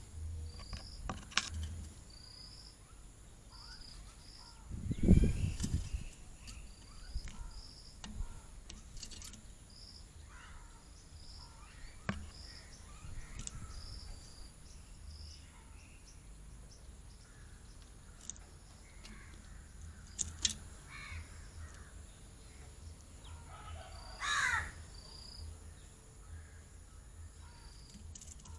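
Birds calling: a steady run of short high chirps about once or twice a second, with several harsh, crow-like calls, the loudest about 24 seconds in. A dull low thump comes about 5 seconds in.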